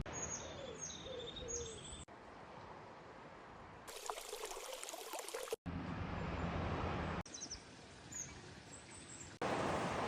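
Birds chirping in short calls over a steady outdoor background noise. The background changes abruptly several times, as if separate recordings were cut together.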